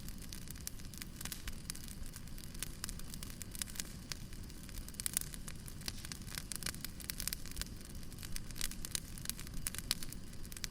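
Wood fire crackling: irregular sharp pops and snaps of burning firewood over a steady low rumble of flame.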